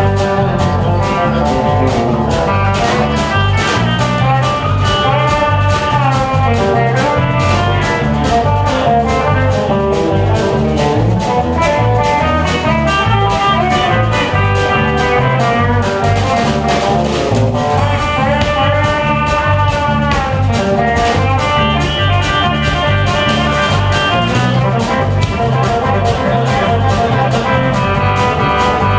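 Live band playing an instrumental passage with no singing: guitar over bass and drums, with a steady beat.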